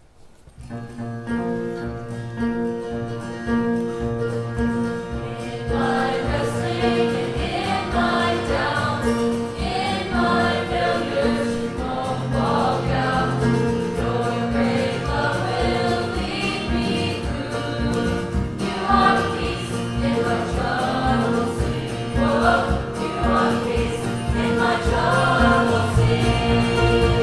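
Children's choir singing a praise song with acoustic string accompaniment in bluegrass style. The instruments start just under a second in and the voices join about six seconds in.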